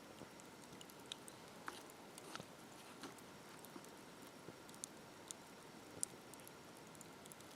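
Wood campfire crackling faintly: sparse, irregular sharp pops and clicks over a low steady hiss.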